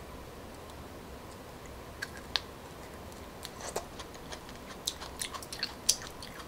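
Close-up mouth sounds of chewing a coconut weevil grub (đuông dừa): sharp, wet clicks and smacks. They start about two seconds in and come more and more often toward the end.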